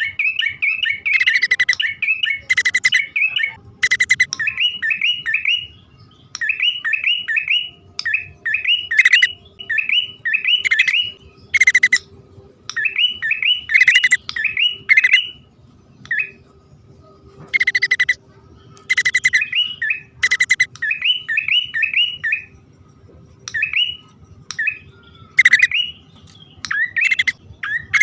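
Male and female prinias (prenjak) calling: quick runs of short, repeated chirping notes in bursts of a few seconds separated by short pauses, broken here and there by louder sharp notes.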